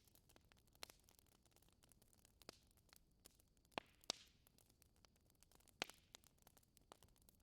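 Wood fire crackling in a fireplace: scattered sharp pops and snaps over a faint hiss, with a few louder pops a little past the middle.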